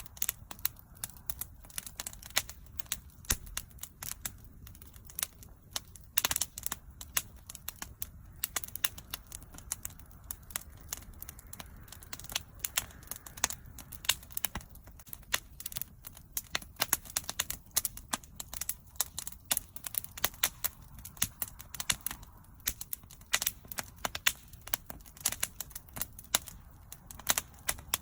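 Wood bonfire burning, with constant irregular crackles and sharp pops over a low, steady rumble of flame.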